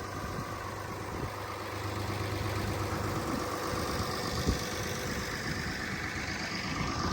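Truck engine idling steadily, with one short knock about four and a half seconds in.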